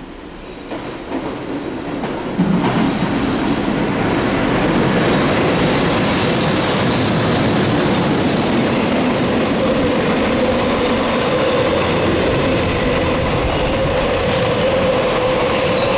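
EH500 electric locomotive and its train of container wagons running past close by. The noise builds as the locomotive approaches and jumps sharply about two and a half seconds in as it goes by. The wagons then roll past in a steady loud rumble and wheel clatter, with a steady whine underneath.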